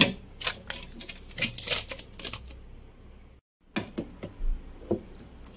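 Irregular clicks, taps and light knocks of frozen-food packets and containers being handled and set into a freezer, broken by a brief silent gap a little past halfway.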